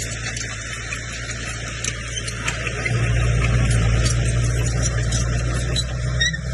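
Diesel engine of a Komatsu bulldozer running steadily, getting louder about three seconds in as it takes more power, with scattered light clicks over the engine note.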